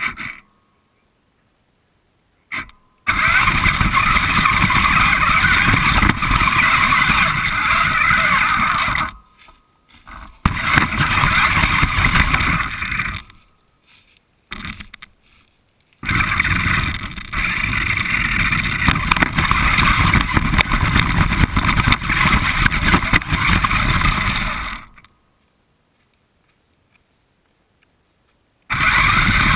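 RC car driving, picked up by a camera mounted on the car itself: a loud, dense rush of motor, drivetrain and tyre noise. It comes in several runs of a few to about nine seconds, with dead silence between them.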